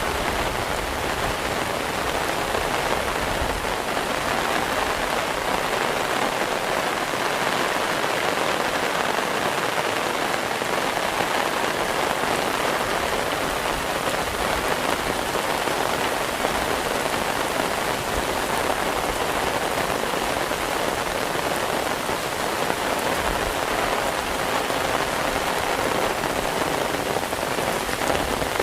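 Heavy rain falling steadily, an even hiss that doesn't let up.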